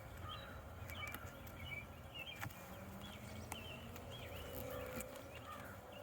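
Small birds chirping over and over, about twice a second, with a few faint clicks among them.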